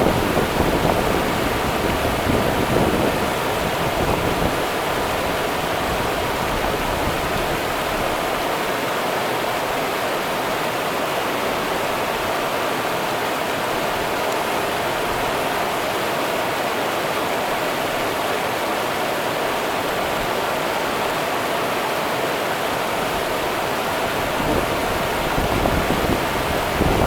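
Rio Grande river water rushing steadily over its bed, an even, continuous flow.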